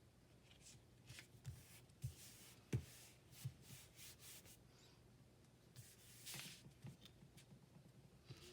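Faint rustling of paper and light taps as glued paper scraps are handled and pressed down onto a collage, in short scattered bursts.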